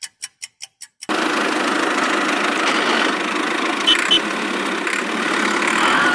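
A small engine cranks with a quick, even series of clicks, then catches about a second in and runs steadily. Two short high beeps sound near the middle.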